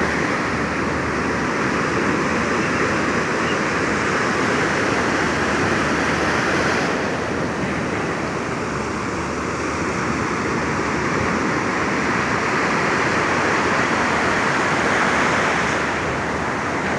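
Surf from a stormy sea breaking on a beach: a steady rushing wash of waves that eases slightly about seven seconds in and builds again toward the end.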